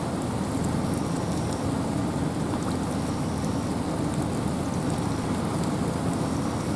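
Steady wind and rain in a forest: an even, unbroken hiss, fullest in its low rush, with fine raindrop ticks on top.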